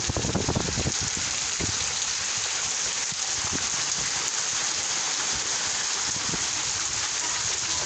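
Rain falling steadily as a dense, even hiss, with a cluster of louder drop impacts in the first second.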